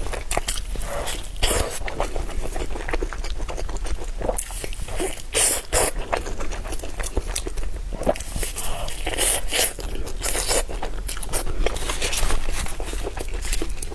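Close-miked eating: repeated crunchy bites and chewing of a shredded-potato egg pancake, with irregular crackling and smacking.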